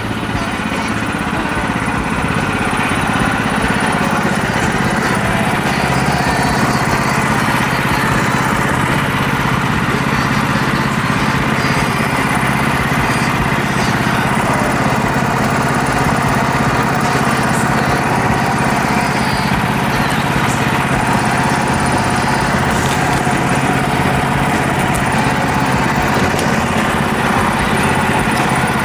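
Portable sawmill's engine running steadily, probably under load as the blade cuts a board; it gets a little louder over the first two seconds, then holds level.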